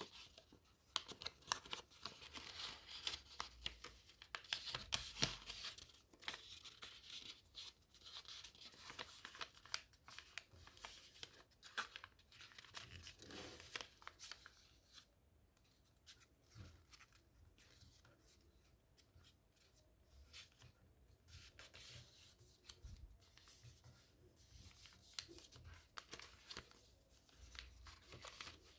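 A sheet of origami paper being folded and creased by hand: quiet, irregular rustling and crinkling with short sharp crackles, busier during the first half and sparser later.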